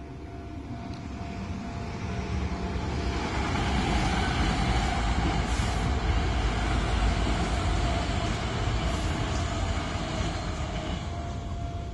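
A Hankyu Kyoto Line electric train passing over a level crossing: its rumble and rail noise build for a couple of seconds, stay loudest through the middle and fade away near the end. The crossing's warning signal sounds as a steady tone beneath it.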